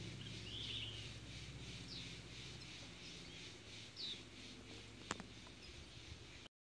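Faint outdoor ambience with a few short bird chirps over a steady low hum, and a single sharp click about five seconds in; the sound cuts off abruptly just before the end.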